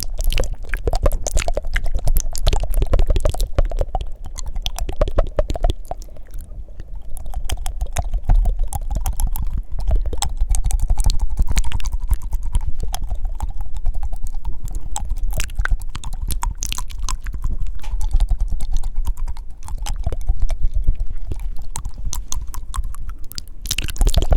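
Fast, wet mouth sounds close to sensitive microphones: rapid tongue clicks and flutters mixed with breaths, in a dense, irregular stream.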